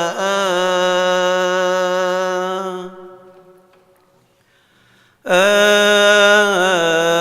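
Solo male voice chanting a Coptic Orthodox hymn in long, melismatic held notes with a wavering pitch. The note fades out about three seconds in, a pause of about two seconds follows, and the chant comes back at full strength about five seconds in.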